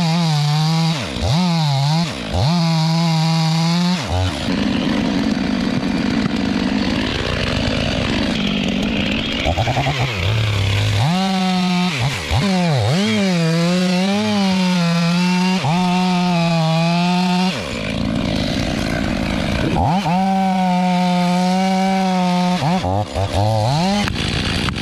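Chainsaw running, revved up and down in quick blips and held at full throttle for several seconds at a time while cutting, with a rougher, lower-running stretch about a third of the way in.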